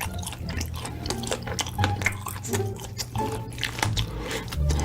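Close-miked eating sounds: wet chewing and mouth clicks in an irregular stream, over background music with a steady low bass.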